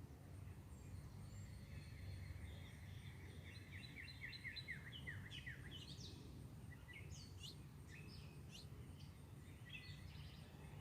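Songbirds chirping and calling faintly, with a run of quick, repeated down-slurred notes a few seconds in, then scattered higher chirps, over a steady low background rumble.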